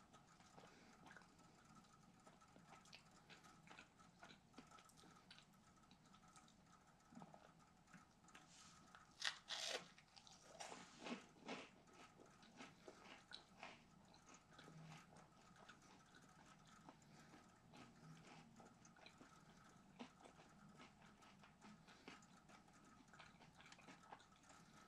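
Faint chewing of a crispy fried chicken sandwich, with a short run of louder crunches about nine to twelve seconds in.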